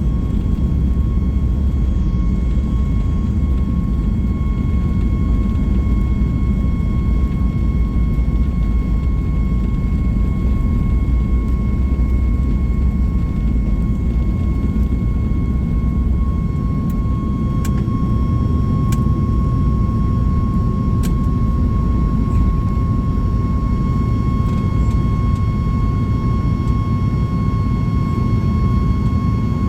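Boeing 737 MAX 8's CFM LEAP-1B engines at high takeoff power, heard from inside the cabin: a loud steady low rumble with a steady whine over it.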